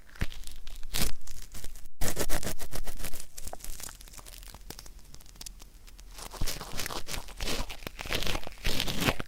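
Ear-cleaning ASMR: an ear pick or cotton swab scraping and rubbing inside a microphone's ear canal, making close, crackly scratching strokes. The sound cuts out completely for a moment just before two seconds in, is thickest just after that, and eases off before picking up again in the second half.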